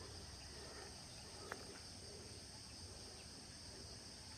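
Faint, steady high-pitched chorus of insects trilling, with a single short click about a second and a half in.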